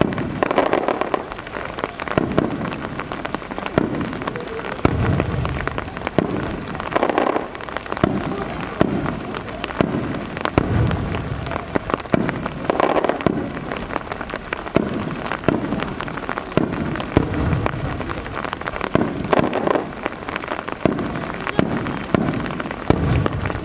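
Aerial fireworks shells bursting with low booms every couple of seconds, over steady rain pattering with dense fine crackling.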